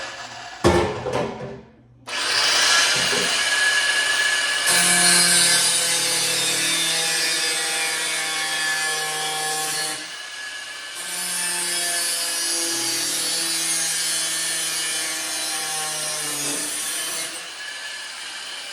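An angle grinder cutting through a piece of metal: a few knocks as the work is handled, then the grinder running in a long, steady cut from about two seconds in, with a brief pause about halfway before it bites in again. The metal is hard to cut, so the cut goes slowly.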